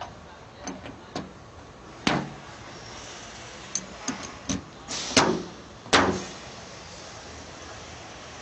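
A series of sharp, irregular knocks and clunks, about nine in all, the loudest about two, five and six seconds in.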